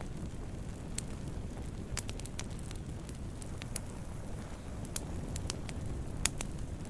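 Wood campfire burning: a steady low rumble of flames with scattered, irregular sharp crackles and pops of burning wood, the loudest pop about six seconds in.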